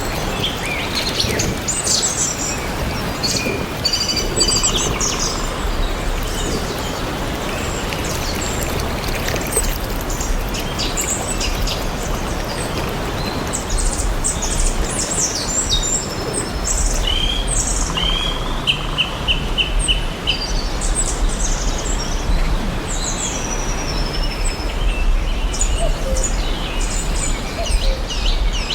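Several birds chirping and calling in short, overlapping phrases over a steady background hiss, with a quick run of about five even notes about two-thirds of the way through.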